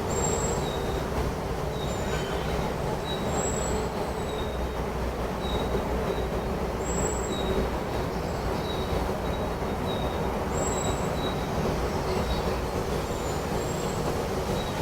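Steady wind rushing, with birds calling over it: a short, high note repeated about once or twice a second, and a longer, even higher whistle every few seconds.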